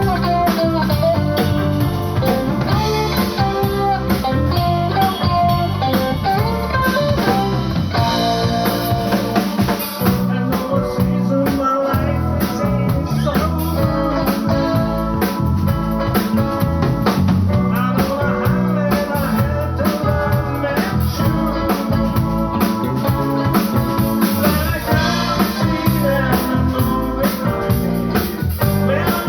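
Live band music: electric guitar and bass over a drum kit, in a blues style.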